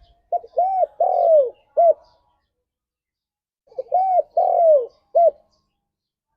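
Spotted dove cooing: two matching four-note phrases about three and a half seconds apart. Each phrase is a short note, an arched coo, a longer coo that falls away at its end, and a short closing note.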